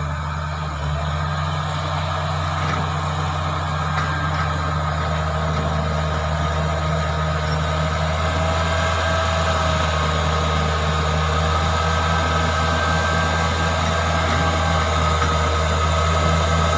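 Caterpillar bulldozer's diesel engine running steadily, with a faint higher whine over the low engine note, growing slightly louder toward the end.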